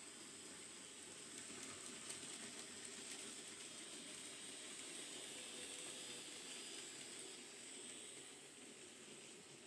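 Faint hiss of an N gauge model train running along its track, with a few light clicks about a second or two in; it grows slightly louder through the middle and eases off near the end.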